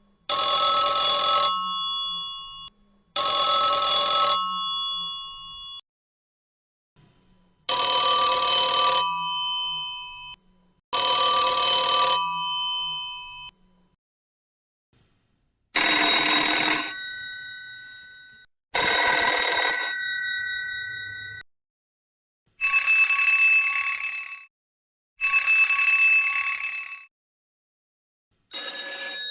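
Old telephones ringing one after another: four different ringers in turn, each giving two rings of about two seconds that fade out, with short silences between. A fifth ringer starts near the end.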